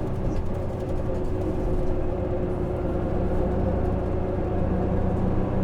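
Interior running sound of a Hino PJ-KV234L1 city bus: its 6HK1 six-cylinder diesel drones steadily under road noise, and the engine note shifts about five seconds in.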